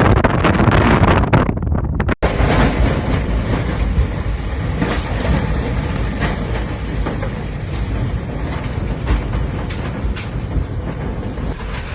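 Strong storm wind near a tornado, a loud steady rumbling roar buffeting the microphone. The sound cuts out for an instant about two seconds in.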